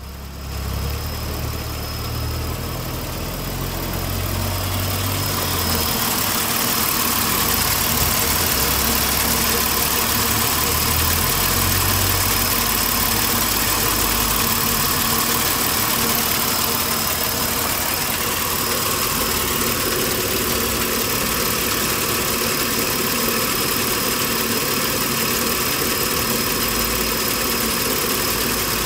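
2006 Mitsubishi Triton's 3.5-litre V6 engine idling steadily.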